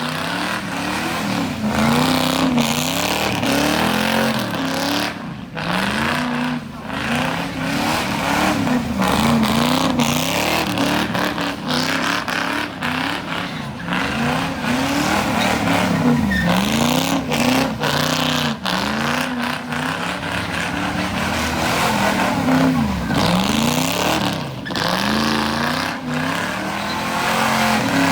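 A car engine revved up and down again and again, its pitch climbing and dropping about once a second.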